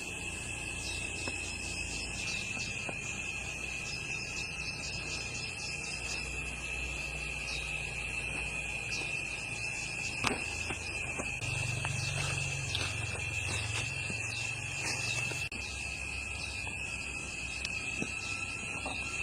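Insects chirring steadily in one unbroken high-pitched drone. A single sharp knock comes about ten seconds in, and a low hum rises in the middle and stops suddenly a few seconds later.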